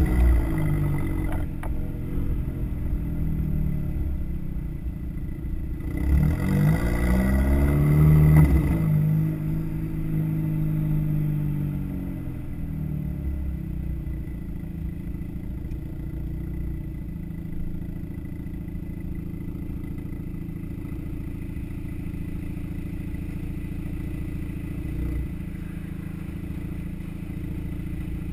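2008 VW GTI's turbocharged four-cylinder through an aftermarket AWE cat-back exhaust and downpipe: the exhaust note climbs and falls in pitch about six seconds in, loudest near eight seconds, then settles into a steady low drone.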